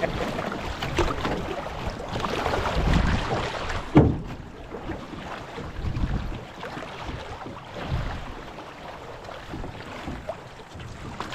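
River water splashing and sloshing around a moving canoe, swelling every second or two, with one sharp knock about four seconds in.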